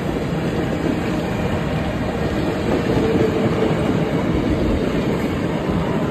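Canadian Pacific 2816 steam train rolling past, its steel wheels clattering over the rails in a steady rumble.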